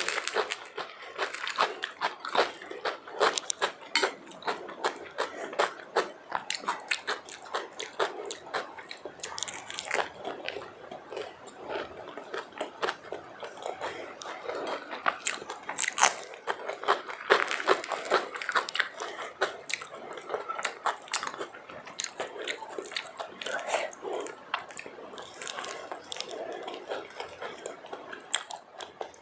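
Close-miked eating sounds: a person biting, crunching and chewing food, with frequent irregular crisp clicks and wet mouth sounds.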